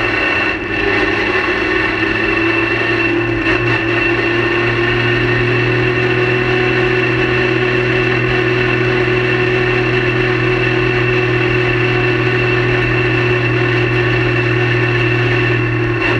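Race car engine heard from inside the cockpit, running at a steady, unchanging pitch as the car rolls slowly at pit-lane speed.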